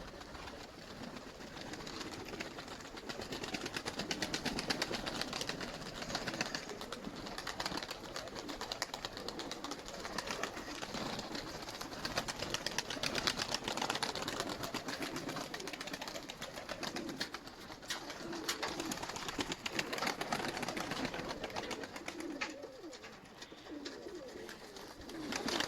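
Nikolaev pigeons cooing, with a steady scatter of small clicks and scratches.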